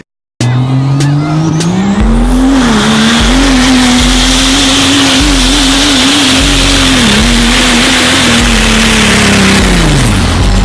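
Vehicle engine revving hard and held at high revs, its pitch wavering, over a loud hiss typical of spinning tyres, with a regular low thumping underneath; the revs drop near the end.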